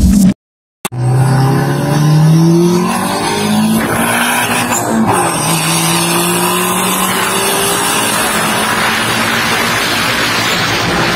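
Engine of a turbocharged Toyota 4E-FTE car accelerating: the note climbs in pitch, dips twice briefly as the gears change, then holds a long slowly rising pull while wind and road noise grow louder.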